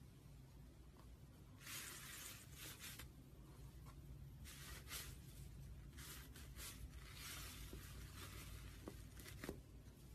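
Slime being squished and stretched by hand: faint, crackly squishing in four or five short bursts, with a few small clicks near the end.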